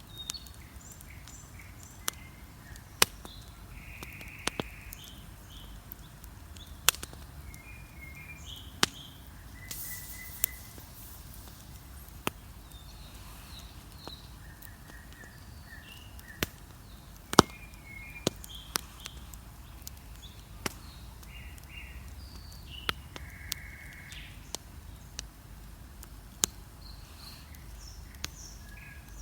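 Wood bonfire crackling, with irregular sharp pops, the loudest about halfway through. Under it, small birds chirp and sing in a dawn chorus.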